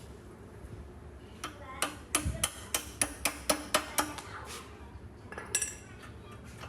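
A hammer striking metal: a quick run of about ten ringing blows, four or five a second, then one more blow a moment later.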